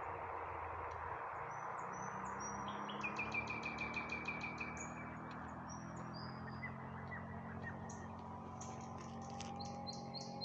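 Nightingale singing: short whistled notes, then a fast rattling run of repeated notes about three seconds in, followed by more short sharp phrases, over a steady background hiss and low hum.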